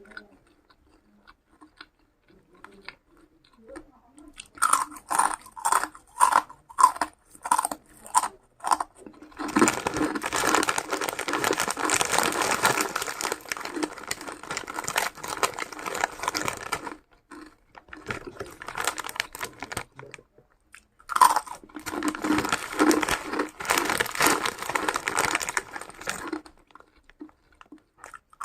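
A person chewing crunchy food close to the microphone: after a few quiet seconds come separate crunches about two a second, then two long stretches of dense, continuous crunching with a short lull between them.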